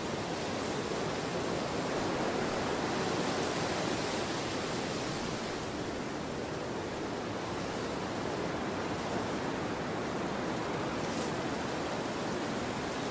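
Storm wind blowing hard, a steady rushing that swells a little about two to four seconds in and then eases.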